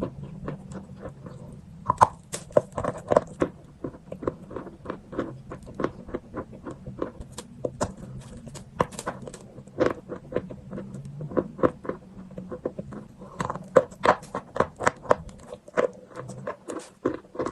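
Close-up crunching and chewing of chalk in the mouth: a fast, irregular run of sharp crunches and clicks, several a second.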